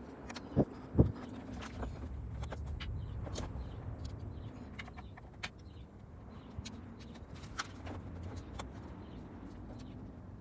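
Two sharp knocks about half a second apart near the start, then scattered light clicks and ticks over a steady low rumble.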